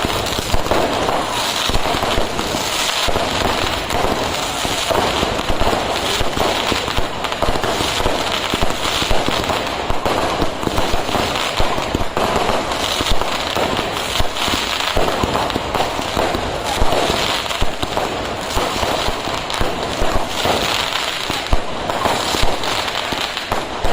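Fireworks going off in a dense, unbroken barrage: rapid bangs and crackling running together at a steady level.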